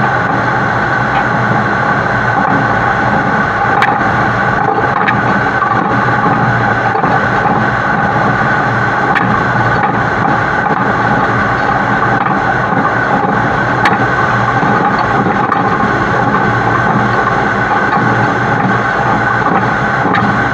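Heavy-haul truck running steadily at highway speed, its engine hum mixed with road and wind noise, heard from a camera mounted on the truck's side, with a few faint ticks.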